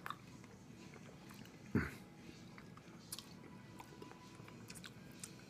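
Faint chewing and mouth sounds of a person eating a mouthful of chicken and dumplings, with scattered small clicks and one short, louder smack about two seconds in.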